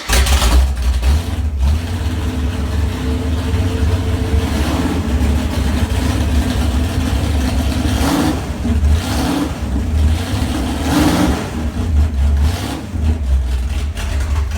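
383 big-block V8 running on an engine stand with a steady low rumble, the revs rising and falling a few times as the throttle is blipped.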